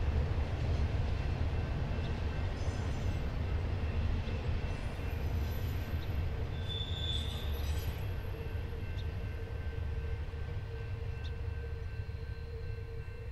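Intermodal freight train rolling by on the curve: a steady low rumble of wheels on rail, with brief high-pitched wheel squeals near the middle, slowly fading toward the end.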